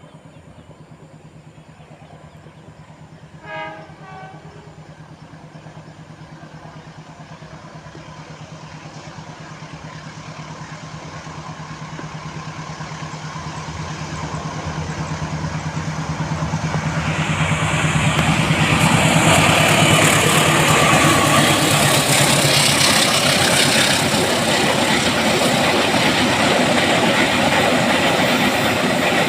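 A diesel-hauled train approaching on the line: the locomotive's engine hum grows steadily louder, with one short horn blast about three and a half seconds in. From about eighteen seconds the train runs close by, with loud rumble and clatter of wheels on rail.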